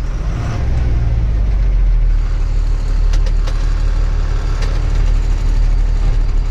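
Truck engine running steadily with a low rumble, with a few sharp knocks and rattles about three seconds in and again a little later.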